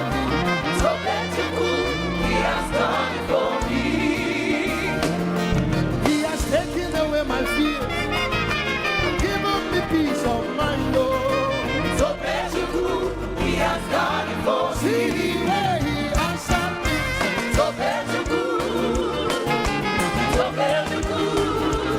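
Live upbeat gospel praise music: a band with bass and drums, with a lead singer and a congregation singing along.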